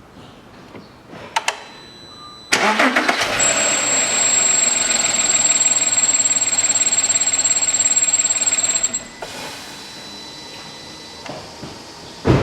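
Audi Q7 3.6-litre petrol engine cranked and started with its accessory belt off the crankshaft, catching about two and a half seconds in and running loudly. Over it sounds a steady high-pitched whistle. With no pump, alternator or compressor turning, the whistle is not from the water pump or the belt-driven accessories; the mechanic takes it for air being sucked in somewhere. The sound drops much quieter about nine seconds in.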